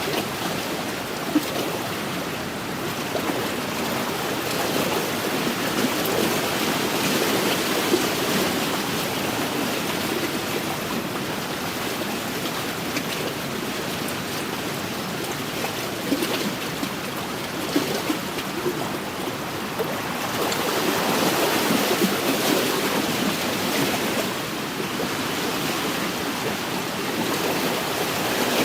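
Wind-driven lake waves lapping and splashing against the shore: a steady wash that swells louder twice, with a few sharp splashes.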